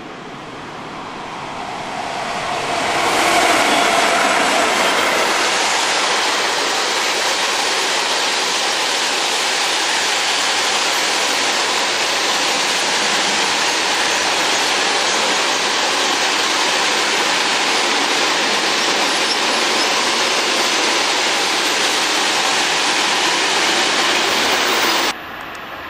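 Freight train hauled by an electric locomotive passing close by: the noise of wheels on rail builds over the first few seconds, then the wagons roll past with a loud, steady rush. It cuts off abruptly near the end.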